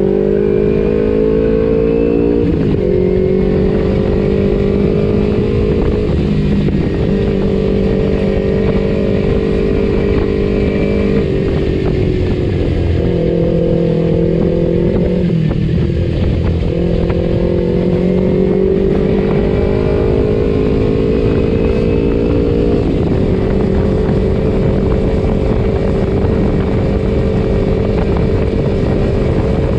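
Kawasaki Ninja 250 FI parallel-twin engine through an R9 H2 aftermarket exhaust, under way: it pulls up in pitch at the start, changes gear, eases off and picks up again a few times, then holds a steady cruising pitch for the last several seconds.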